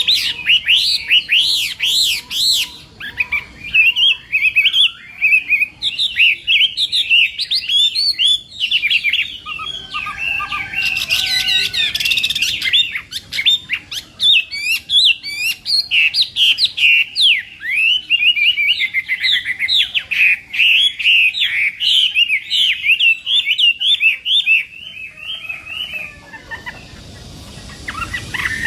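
Chinese hwamei (họa mi) singing a long, fast run of varied whistled and warbled notes. The song falls away about 26 seconds in and starts again near the end.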